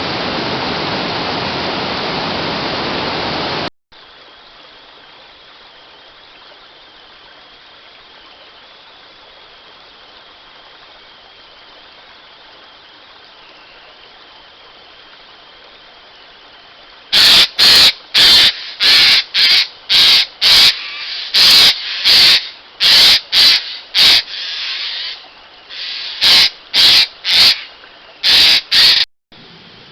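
Rushing water for about four seconds, cut off abruptly; then a faint steady hiss, and from about halfway a rapid run of loud, harsh, short bird calls, about two a second, like a crow cawing.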